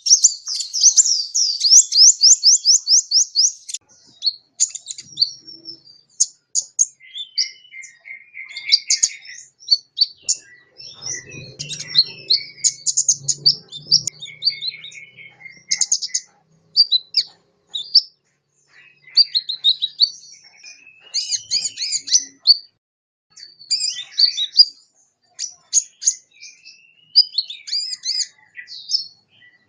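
Sunbird (Indonesian 'kolibri') singing: it opens with a fast trill of rapid rising notes, then runs into a long stream of high, varied chirps and twitters broken by short pauses.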